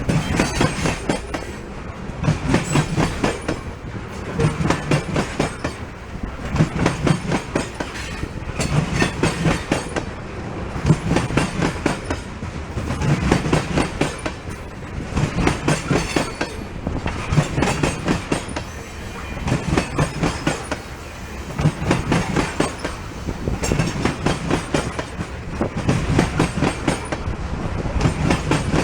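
Loaded ethanol tank cars rolling past, their wheels clicking over rail joints in a regular clickety-clack, a group of clicks about every two seconds over a steady rumble.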